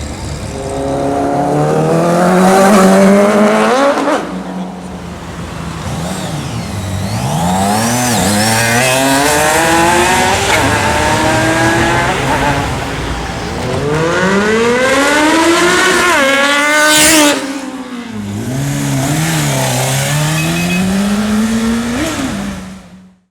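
Sport motorcycles accelerating hard one after another, engines revving up in long rising sweeps with drops between gears. One bike about three-quarters of the way through climbs to a very high-pitched scream before falling off.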